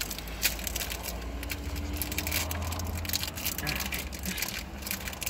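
A person chewing a mouthful of a bread and popcorn chicken sandwich close to the microphone, with many small crunchy clicks, over a low steady rumble.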